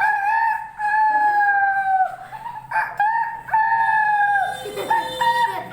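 Rooster crowing: two long crows, each ending in a drawn-out note that falls slightly, then shorter calls near the end.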